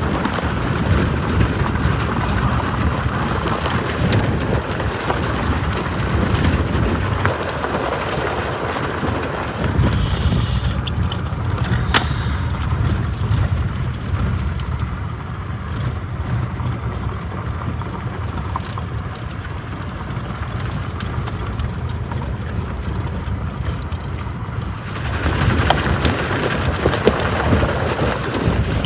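Strong wind buffeting the microphone in gusts over the steady low rumble of a passing freight train.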